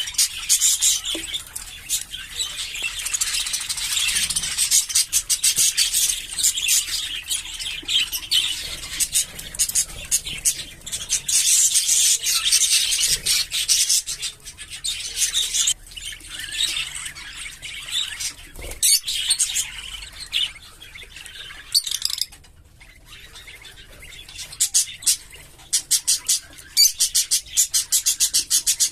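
Budgerigars chattering and chirping, a dense run of warbles and rapid trills, with a quieter lull about two-thirds of the way through.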